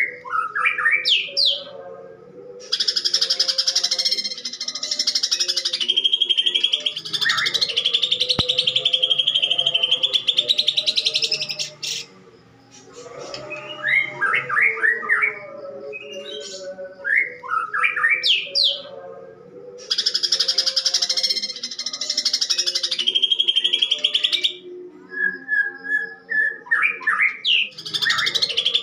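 Greater green leafbird (cucak ijo) singing loudly, alternating quick runs of rising chirps with long, harsh rattling phrases of several seconds each. The rough phrases are its mimicry of fighting Eurasian tree sparrows.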